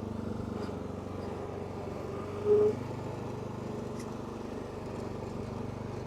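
Riding lawnmower engine running steadily at idle, a low, even hum. About two and a half seconds in, a short, louder higher note sounds briefly over it.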